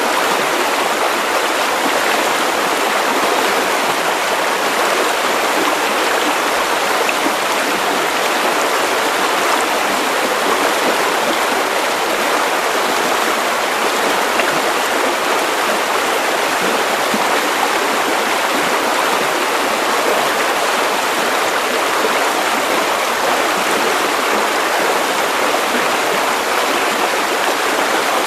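Steady white noise: an even hiss with nothing below a low cutoff, unchanging throughout, for lulling a baby to sleep.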